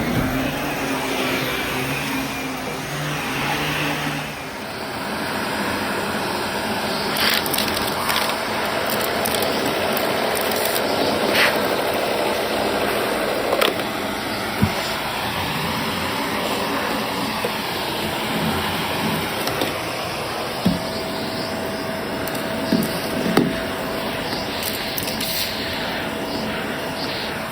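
Vacuum cleaner running steadily while vacuuming, with a few short clicks and knocks scattered through it.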